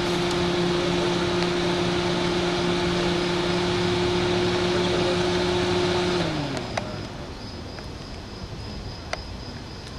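Car engine idling with a steady hum, then switched off about six seconds in, its hum sliding down in pitch and dying away. A few faint clicks follow.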